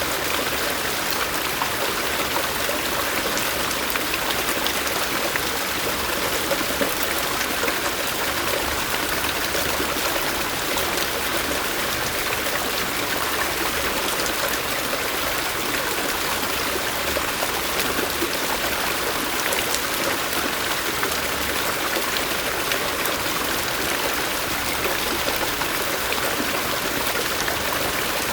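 A stream of running water flowing steadily, an even rushing hiss without breaks.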